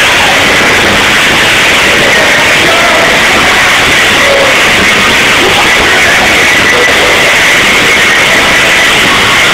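Live rock concert recorded through an overloaded camera microphone. The music comes out as a loud, distorted, constant wash with little clear detail.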